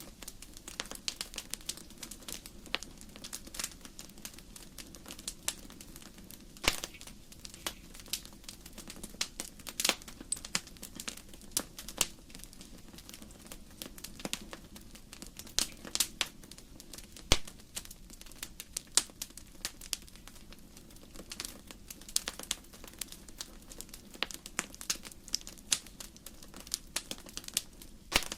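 Wood fire in a fireplace crackling: frequent irregular sharp pops and snaps of burning logs over a soft steady low rumble of the flames.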